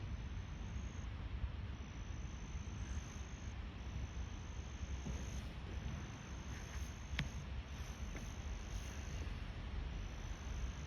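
Insects trilling in long, high, steady-pitched phrases broken by short pauses, over a low steady rumble, with one sharp click about seven seconds in.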